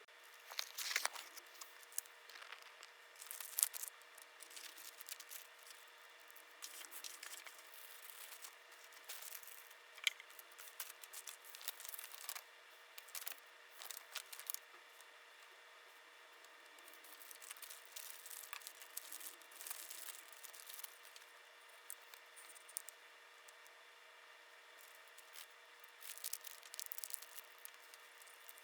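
Close-up handling sounds of small craft materials: scattered clicks, taps and rustling or crinkling, loudest in the first few seconds, over a faint steady hum.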